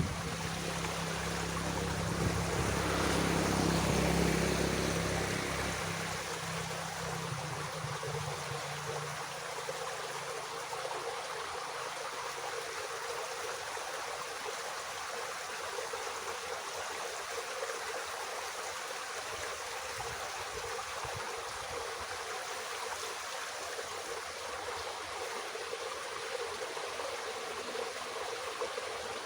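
Water running steadily through a small irrigation ditch: a continuous even hiss. During the first several seconds a low hum swells and then fades away.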